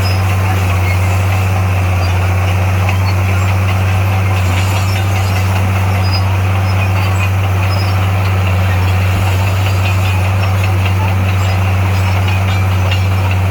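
Heavy diesel engine of earth-moving equipment running steadily with a constant low drone.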